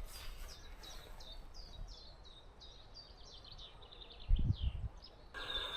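A small songbird singing a long series of short, high, down-slurred notes that come faster toward the end. A few low thumps sound about four seconds in.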